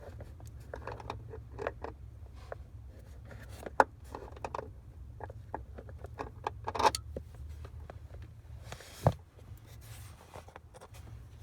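Small metal clicks, taps and rattles of parts and tools being handled, with a sharp knock about four seconds in and a dull thump about nine seconds in, over a steady low hum.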